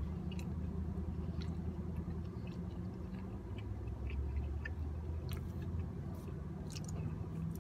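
A person chewing pizza and nachos, with small wet mouth clicks scattered throughout, over a steady low hum inside a car.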